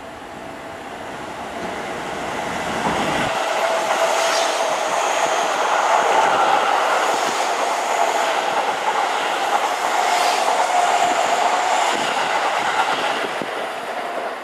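Seibu Railway express train passing through the station at speed without stopping. Its rushing sound builds over the first few seconds as it approaches, then wheels clatter over the rail joints as the cars go by.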